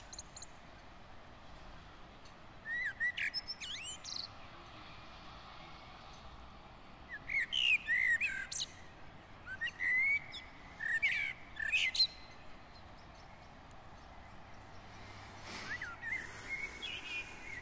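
Songbirds singing in short phrases of quick rising and falling chirps, coming in four bursts a few seconds apart over a faint steady hiss.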